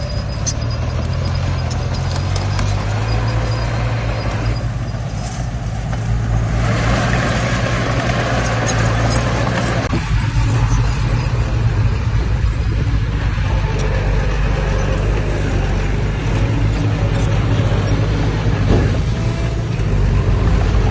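Diesel engine of heavy earthmoving machinery running steadily under load, with a deep, even drone and rough mechanical noise over it.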